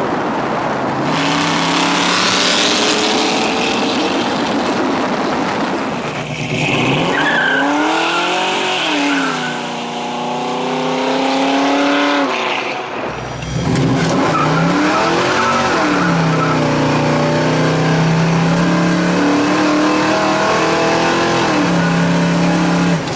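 1968 Ford Mustang fastback's engine under hard running, loud, its note holding steady, then swinging up and down several times, with a short break in the sound about thirteen seconds in before it picks up again.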